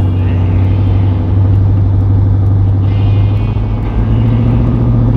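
Car engine idling loudly with a steady, pulsing beat.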